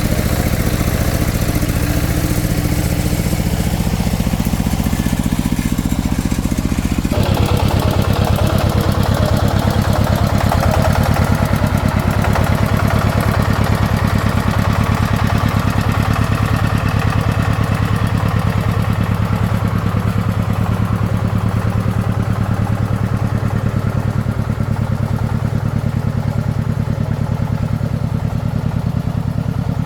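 Single-cylinder diesel engine of a small farm vehicle running steadily with a fast, even beat; the sound changes abruptly about seven seconds in.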